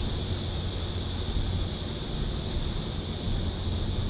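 Insects chirping in short repeated trills, about one group a second, over a steady outdoor hiss and a low rumble.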